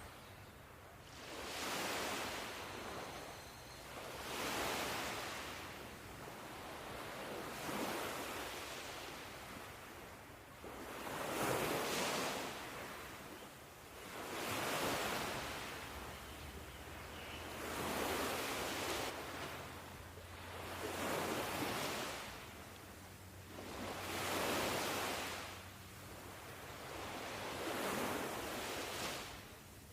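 Ocean waves washing in one after another, each swelling and fading over about three seconds.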